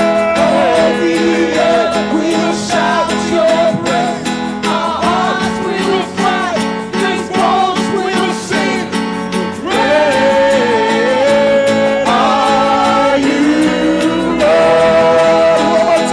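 Live worship band music: a singer's sliding, melodic vocal lines over guitar and sustained chords.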